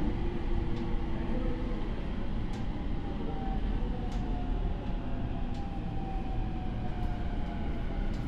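Low rumble of a train moving slowly on the next track past a standing commuter train, its wheels ticking over rail joints about every one and a half seconds, with a faint whine that falls slowly in pitch.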